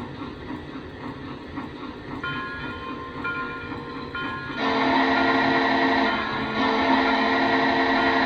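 Lionel 6-38060 Union Pacific H-7 O scale locomotive's RailSounds 5 sound system playing a pulsing running sound. About halfway through, a loud multi-tone whistle sounds in two long blasts with a short break between them.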